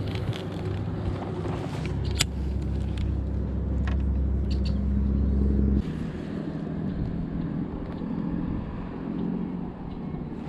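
A motor running steadily with a low hum, most likely a motorboat's engine on the lake, which cuts off abruptly about six seconds in. A lighter, wavering engine hum and a few sharp clicks follow.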